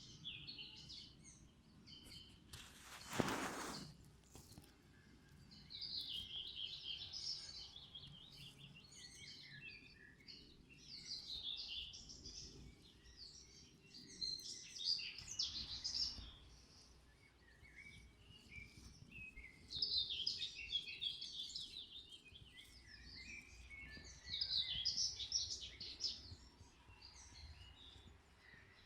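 Songbirds singing outdoors: high, chirping song phrases of about two seconds each, repeated every few seconds. About three seconds in, a brief loud rushing noise, the loudest sound here, cuts across the song.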